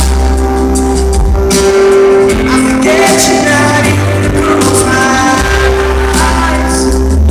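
Live pop ballad played loud by a band, with a male lead vocal over a heavy, steady bass, recorded from the audience in poor sound quality.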